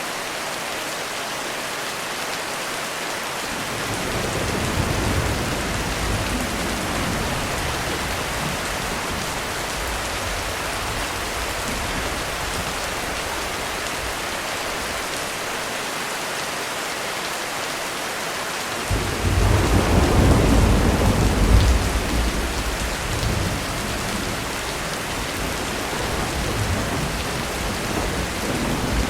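Heavy rain falling steadily while thunder rolls: a low rumble builds about four seconds in and lingers, a louder clap of thunder rolls in just past the middle and dies away over a few seconds, and another rumble starts near the end.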